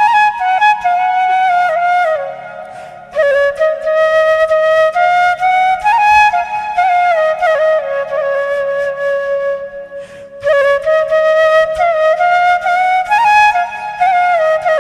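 Instrumental background music: a flute plays a slow, gliding melody in phrases over a soft, steady accompaniment, pausing briefly twice.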